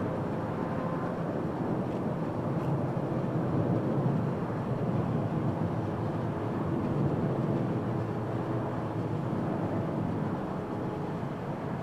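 Boeing 777F freighter's twin GE90 turbofan engines running, a steady jet rumble with a faint held whine.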